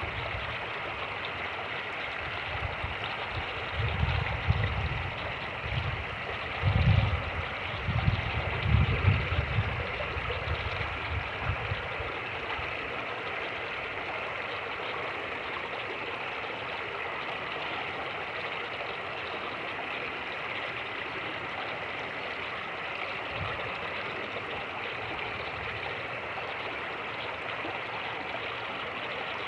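Fast-moving creek rushing steadily. Over the first twelve seconds or so, low rumbling gusts of wind buffet the microphone, getting past its wind cover.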